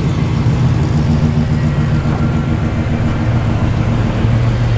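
Chevrolet Camaro SS V8 engine running at low revs as the car pulls away slowly, a steady low engine note that drops slightly in pitch about three seconds in.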